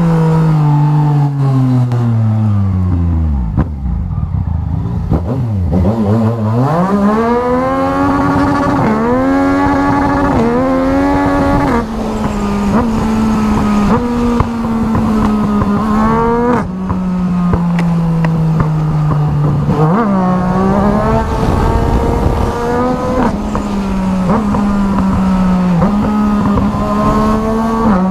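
Motorcycle engine slowing with a falling pitch, then accelerating hard through several quick upshifts, each gear a rising whine that drops back at the shift, before settling into a steady cruise with small throttle changes. Wind noise rumbles under it.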